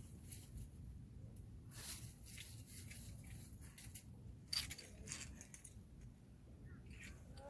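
Metal climbing gear (carabiners and quickdraws) clinking and jangling in a few short clatters, sharpest about two seconds and about four and a half seconds in, over a low steady rumble.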